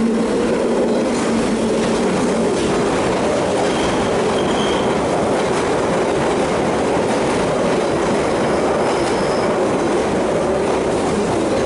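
London Underground Central line train running at the platform, a loud steady rumble of wheels on rail with a sustained squealing whine over it.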